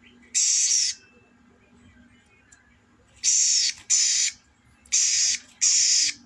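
A male sogon songbird giving harsh, hissing bursts of song, five of them about half a second each: one near the start and two close pairs in the second half.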